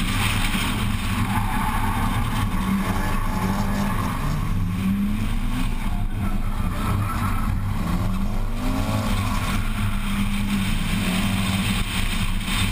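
Nissan Laurel drift car's engine heard from onboard, its revs rising and falling several times as it drifts through a run of corners.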